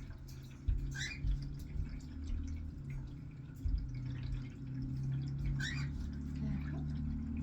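A pet parrot gives two short rising chirps, about a second in and again near six seconds, over a steady low hum, with a few soft thumps in the first four seconds.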